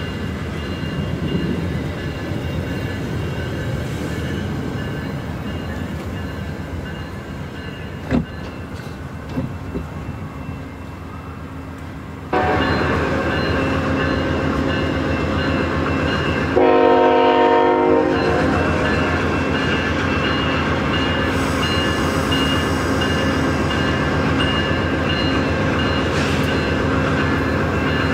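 A VIA Rail passenger train of LRC coaches rolling past on the rails with a steady rumble, then steady train running noise with a drone of several tones. About two-thirds of the way through, a locomotive's air horn gives one blast of about a second and a half.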